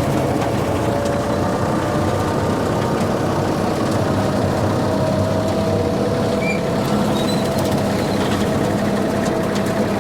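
Tractor engine running steadily while pulling a brush hog mower: an even, unbroken engine drone with a thin steady whine on top.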